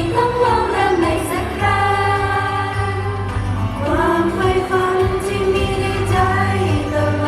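Female pop idol group singing a Thai pop song live over a pop music accompaniment, with long held notes.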